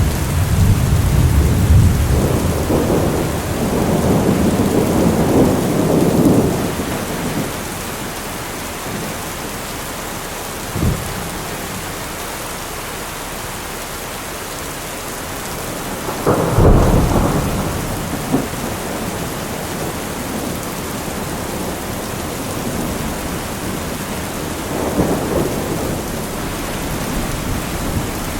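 Thunderstorm: steady heavy rain with rolling thunder, a long rumble at the start, a short sharp crack about a third of the way in, a loud clap and rumble past the middle, and a softer rumble near the end.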